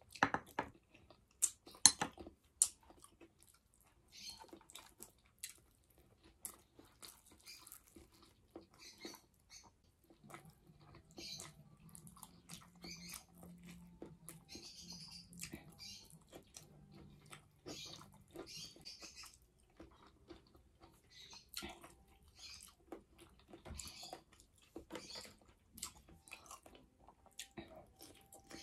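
Close-up chewing and wet mouth smacks of a person eating soft boiled vegetables by hand, with a few loud sharp clicks in the first three seconds.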